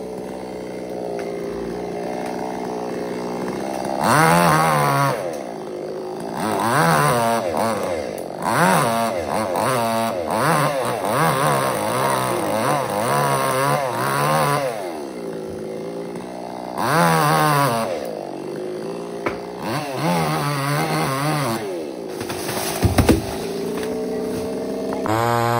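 Chainsaw engine running, its speed rising and falling again and again as the throttle is worked, with steadier running for the first few seconds.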